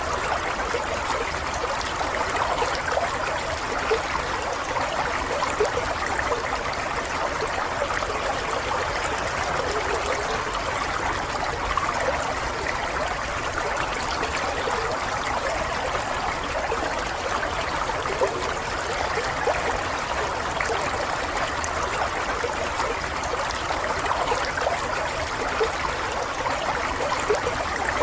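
Water running steadily in a continuous babbling flow.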